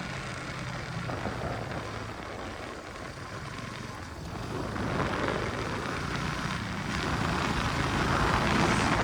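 KTM RC 200 motorcycle engine running under way, with a rushing noise that swells and grows louder from about halfway through.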